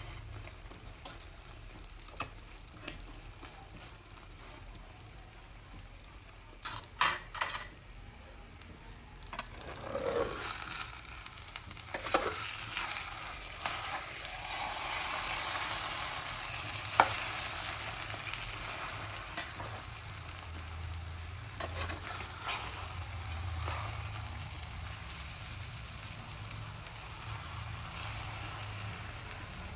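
Food sizzling in a hot frying pan while a utensil stirs and scrapes against the pan, with a few sharp clinks. The sizzling grows louder about a third of the way in.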